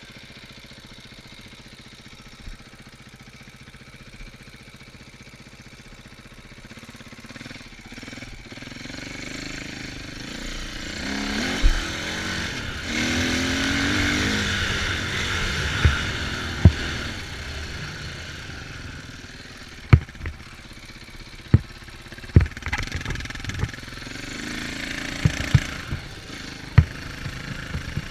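Off-road vehicle engine running and revving on a ride, climbing in pitch and loudest about twelve to fifteen seconds in, then easing off. Short sharp thumps punctuate the second half.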